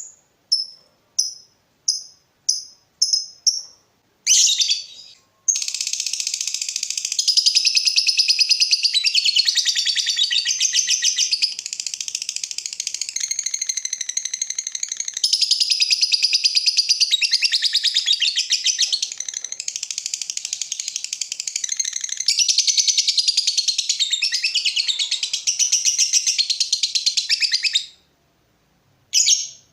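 Lovebird giving a quick series of short, sharp chirps, then a long, unbroken, rapid chattering trill of about twenty seconds (the 'ngekek panjang' call) that cuts off sharply, followed near the end by one brief call.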